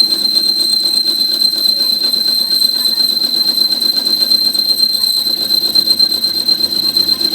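A steady, unchanging high-pitched whine over a low, noisy hum.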